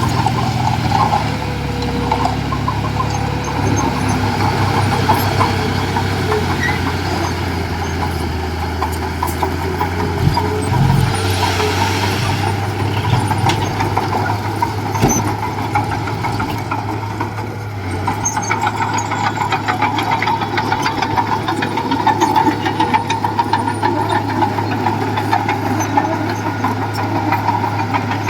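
Heavy machine's diesel engine running steadily, with a few knocks and a brief hiss partway through.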